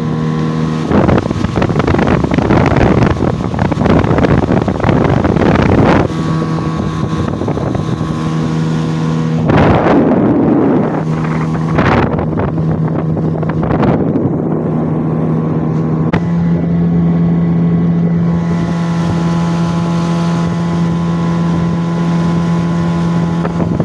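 Gladiator 9.9 hp outboard motor running steadily, its note stepping up slightly about two-thirds of the way through. Several loud gusts of wind buffet the microphone over it.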